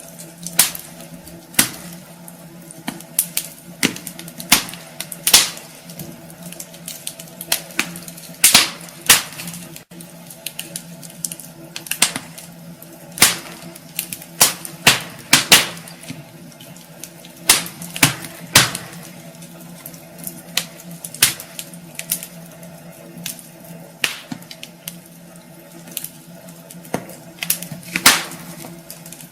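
Wood fire burning in a fireplace, crackling with irregular sharp pops and snaps, a few louder ones standing out among the smaller ticks.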